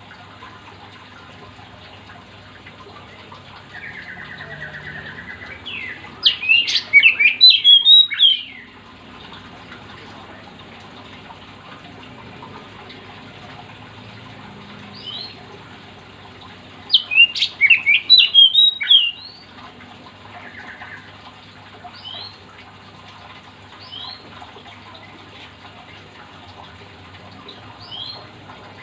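Oriental magpie-robin (kacer) singing: two loud bursts of rapid, varied whistled phrases, about six and seventeen seconds in. A buzzy trill leads into the first burst, and short soft notes fall in between.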